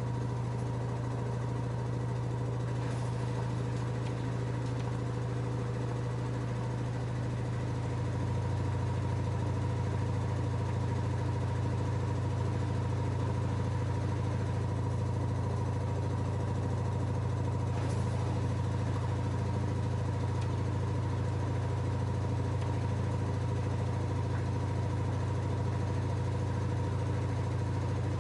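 LG F10A8HDS5 front-loading washing machine spinning its drum at speed: a steady low hum with a faint steady whine above it, which steps up in loudness about eight seconds in.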